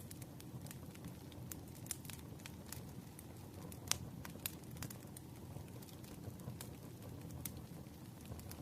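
Fire crackling with irregular sharp pops, one louder pop about four seconds in, over a steady rain hiss.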